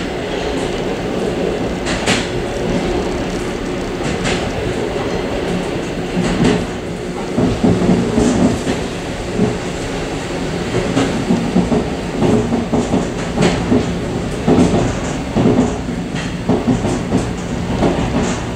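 Suburban passenger train running along the track, heard from inside the car's vestibule: a steady rumble and rattle with repeated knocks as the wheels pass over rail joints.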